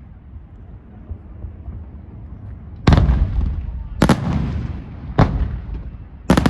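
Fireworks display: a low rumble, then four loud shell bursts starting about three seconds in, roughly a second apart, each with a short trailing echo.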